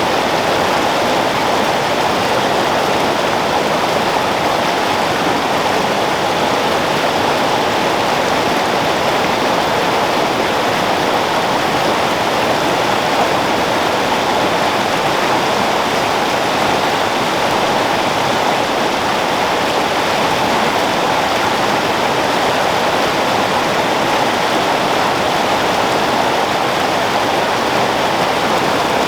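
A flowing creek: a steady, unbroken rush of running water.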